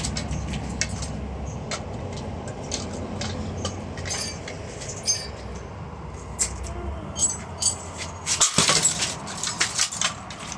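Metal and plastic ceiling-fan parts clinking, knocking and clattering as the fan is being broken apart, with a quick flurry of clatters about eight and a half seconds in. A low hum runs underneath and stops about seven seconds in.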